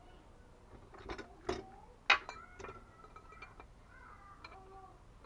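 A few sharp clicks and knocks from metal plumbing parts and tools being handled, the loudest about two seconds in, with faint high squeaks in between.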